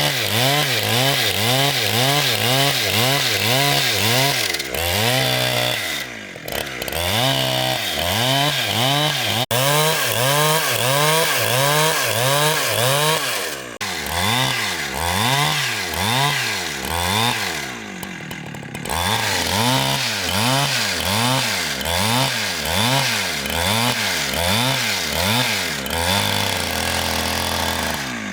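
Engine-driven saw cutting through a large log. Its pitch rises and falls about twice a second, with brief dips in loudness a few times.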